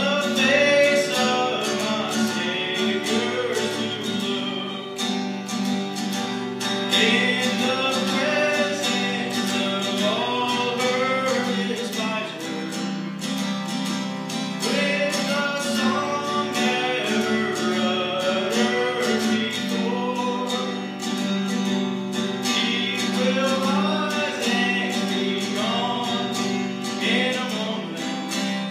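A solo singer performing an old country gospel song to a strummed acoustic guitar, sung in long phrases over the steady chords.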